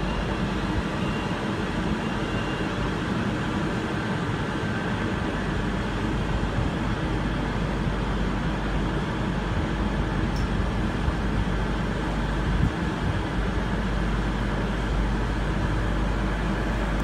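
Steady running rumble of trains at a station platform, with a low steady hum underneath.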